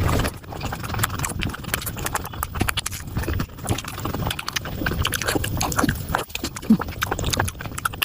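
Close-miked mouth sounds of someone chewing pork momo dumplings, played back sped up: a rapid, busy stream of wet clicks and smacks.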